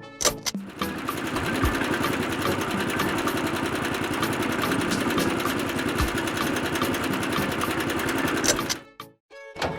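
Small electric motor running steadily with a fast, even whir, starting about a second in and cutting off shortly before the end.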